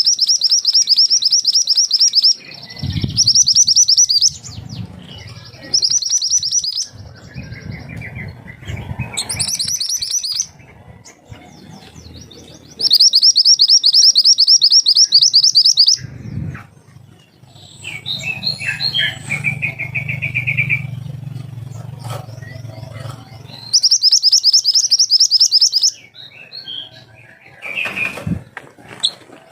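Mantenan gunung songbird singing in loud, rapid, rattling high trills of one to three seconds each, about six times, with softer chirps between them. A low hum runs under parts of it.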